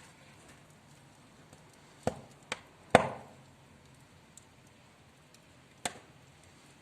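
Four sharp knocks, the third the loudest and ringing briefly.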